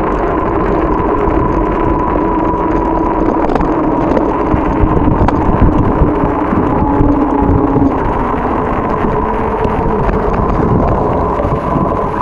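Strong wind rumbling on the microphone of a moving bike, with a steady hum underneath and louder gusts in the middle.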